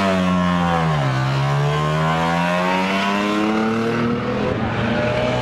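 Rotary engine of Mazda's 1970 rotary concept car (the RX500) revving. The pitch drops in the first second, then climbs steadily over the next three seconds before easing off near the end.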